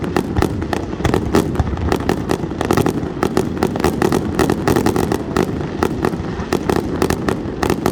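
Fireworks and firecrackers going off without let-up: a dense run of sharp pops and bangs, several a second, over a low rumble.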